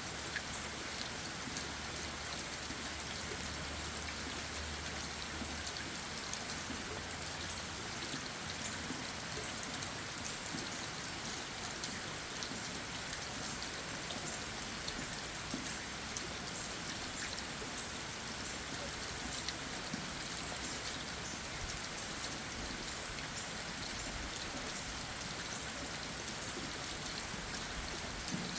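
Steady rain falling on leaves and ground, with many small drop ticks scattered through an even hiss.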